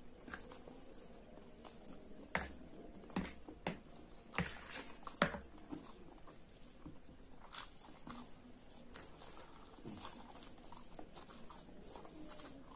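Close-up chewing of a mouthful of fried instant noodles, with wet mouth clicks and smacks. The clicks are loudest and most frequent between about two and five seconds in, then softer.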